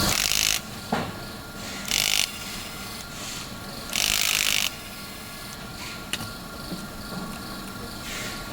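Mechanical handling of a battery lock and its parts: three short scraping, ratchet-like bursts and a few sharp clicks.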